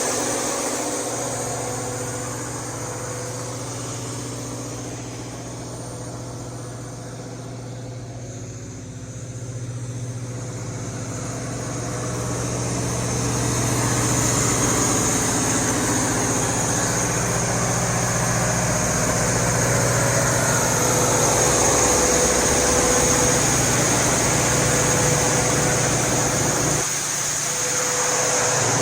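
Cummins KTA50-G9 16-cylinder diesel engine of a 1500 kW generator set, housed in a sound enclosure, running at a steady speed. It grows quieter over the first several seconds, gets louder again about halfway through, and dips briefly near the end.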